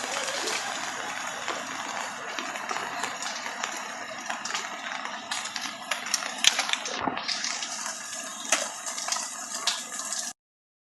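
Floodwater rushing: a steady, rough rush with scattered sharp knocks, cutting off suddenly near the end.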